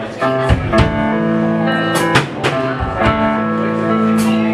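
Live band playing: ringing guitar chords over sustained keyboard and bass notes, with regular drum kit hits.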